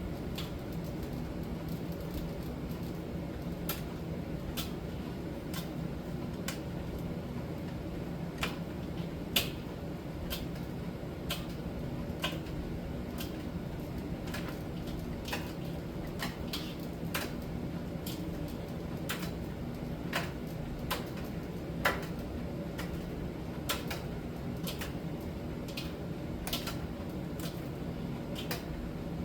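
Miele T1 heat-pump tumble dryer running in its drying stage: a steady low hum of the machine with irregular light clicks, about one a second, as the load tumbles in the drum.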